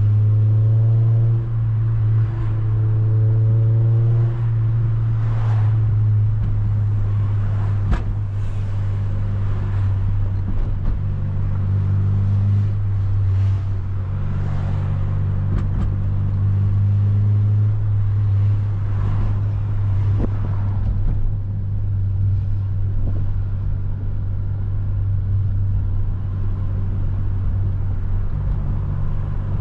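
8th-generation Honda Civic Si's 2.0-litre four-cylinder engine running at a steady cruise, a constant low drone with small changes in load and no big revs.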